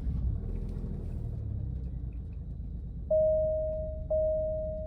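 Alfa Romeo Stelvio Quadrifoglio's 2.9-liter twin-turbo V6 starting and settling into a steady low idle, while the car shows a 'service electronic throttle control' warning. From about three seconds in, a dashboard chime sounds about once a second, each ding fading away.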